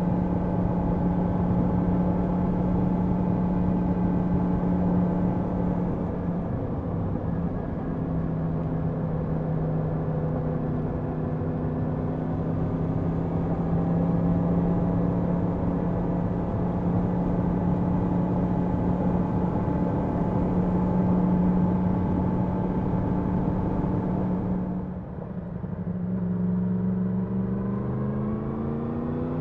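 Yamaha MT-10 SP's crossplane inline-four engine running at a steady cruise. About 25 seconds in the revs drop briefly, then climb steadily as the bike accelerates near the end.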